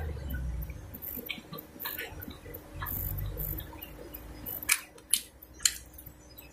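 A person chewing a mouthful of mini burger close to the microphone, with soft mouth noises and a few sharp clicks about five seconds in.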